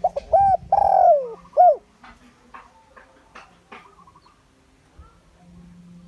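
Spotted dove cooing: one phrase of four arched coos in the first two seconds, the third the longest and falling away at its end. After that only faint scattered clicks are heard.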